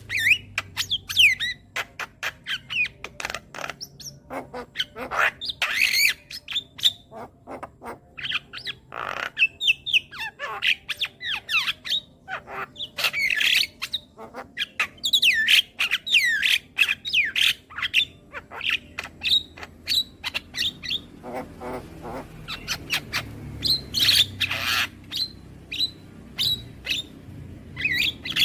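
Javan myna (jalak kebo) chattering: a fast run of harsh squawks, clicks and short whistled sweeps, with brief pauses between bouts.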